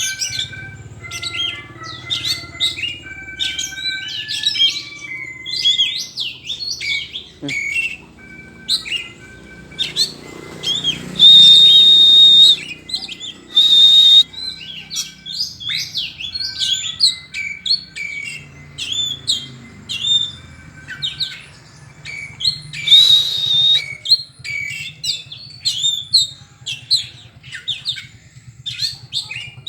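Oriental magpie-robin (kacer) singing a long, varied song of quick whistled notes, broken by three loud, high held notes, the longest lasting about a second and a half.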